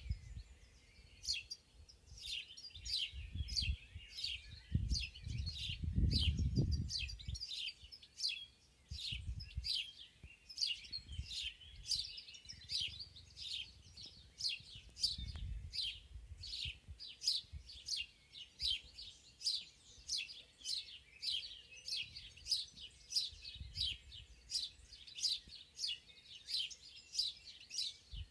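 Birds singing, a steady run of short, high, down-slurred chirps at about two a second. Beneath them a low rumble comes and goes, loudest about six seconds in.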